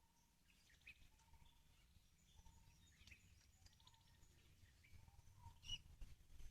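Faint bird calls: short high chirps and trills, with a brief lower whistle repeating about once a second, over a low rumble.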